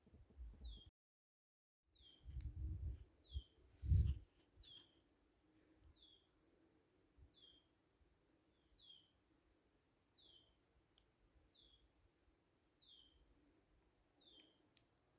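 A songbird repeating a two-note call about every second and a half, a short high note followed by a falling one, over faint outdoor background noise. The sound cuts out completely for about a second near the start, and a few low thumps come two to four seconds in, the loudest about four seconds in.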